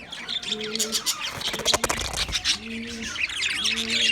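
Budgerigars chirping and chattering in quick, high twitters, with a low coo repeating about three times. A short run of clicks comes a little before the middle.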